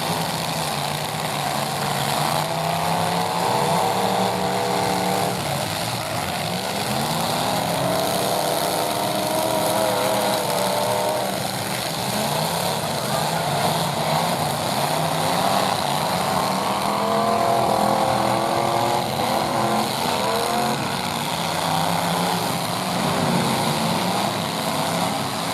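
Engines of full-size pickup trucks in a demolition derby heat, running hard and revving, their pitch rising and falling again and again over a continuous din.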